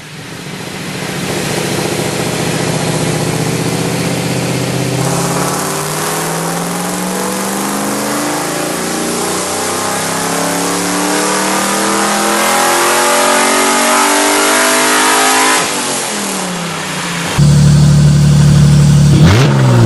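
Car engine accelerating under load, its pitch climbing steadily for about ten seconds before it eases off. About three-quarters of the way through, a louder engine takes over and is blipped, its revs dropping and rising sharply near the end.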